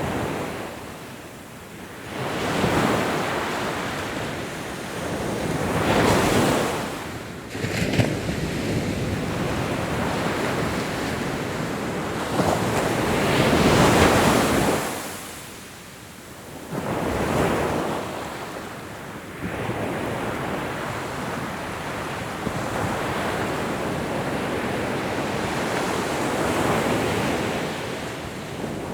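Ocean waves breaking and washing up the shore, swelling and ebbing every few seconds, with the biggest surge about halfway through and a steadier wash near the end.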